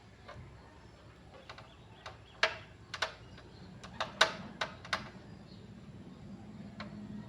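A run of sharp, irregularly spaced clicks and taps of small hard objects being handled, bunched together between about two and five seconds in, over a faint steady low hum.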